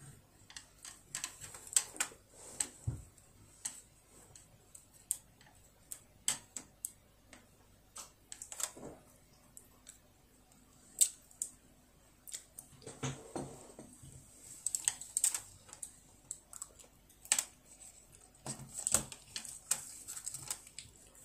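A child eating close to the microphone: chewing and smacking lips, heard as many short, irregular wet clicks.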